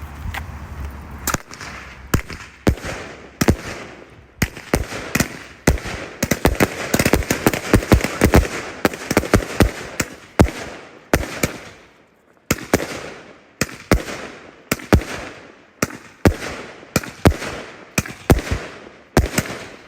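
Fireworks going off in a long run of sharp bangs, thickest and crackling in the middle. After a short lull about twelve seconds in, they settle into evenly spaced bangs at about two a second.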